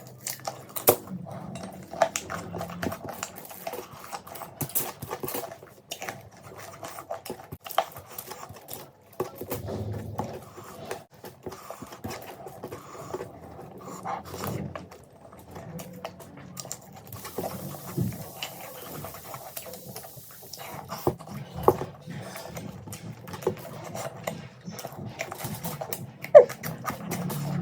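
Close-miked eating sounds: chewing and mouth smacking, with many irregular small clicks.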